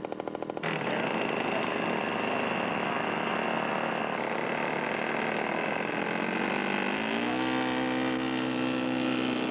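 Engine of a quarter-scale radio-controlled model airplane running steadily. About seven seconds in it climbs in pitch as the throttle opens, then holds the higher note. There is an abrupt change in the sound less than a second in.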